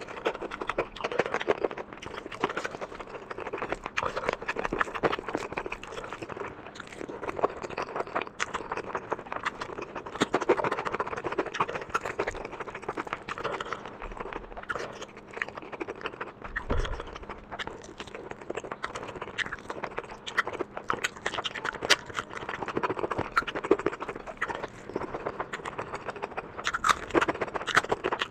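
Close-miked eating sounds: steady chewing and wet mouth smacking of someone eating spicy curry and rice, with many small crunchy clicks.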